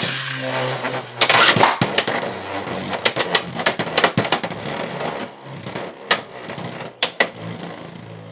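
Gold Fox Brush J2-60U Beyblade launched into a plastic stadium: a sharp rip at the start, then the top whirring as it spins, with repeated sharp knocks and rattles against the stadium walls that grow fainter toward the end.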